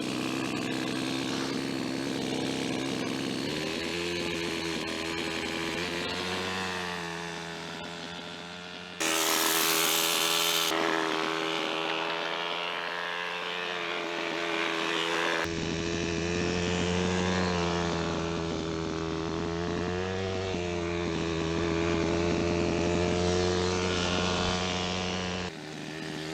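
Kyosho Super Ten RC car's four-stroke glow engine running through a homemade muffler, its revs rising and falling. The sound changes abruptly a few times, jumping in loudness and tone.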